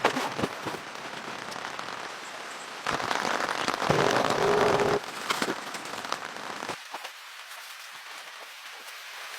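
Rain falling and pattering on a surface as a steady hiss, with a few sharp taps near the start and a louder stretch around the middle.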